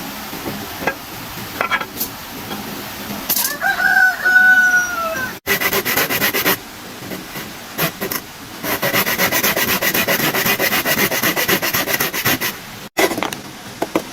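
A rooster crows once, a single drawn-out call. Then comes a run of rapid, even scraping strokes on wood, several a second, like hand work on timber.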